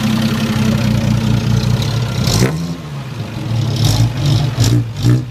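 A classic car's engine running steadily, then a sudden loud burst about halfway through, followed by a few more short bursts near the end.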